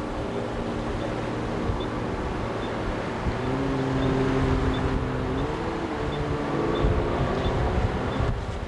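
Boat outboard motor running steadily under way, with wind buffeting the microphone; its pitch shifts up and down briefly around the middle.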